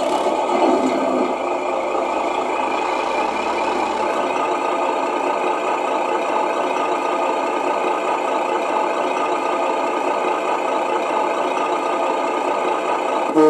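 A radio-controlled Tamiya Mercedes-Benz Actros model truck's onboard sound unit playing a simulated diesel truck engine through its speaker, running steadily at idle. It is triggered by a double hit on the transmitter.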